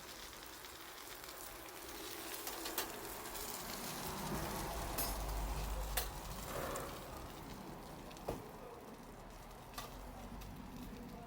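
Bonfire hissing and sizzling, with a few sharp pops, growing louder in the middle and easing off again.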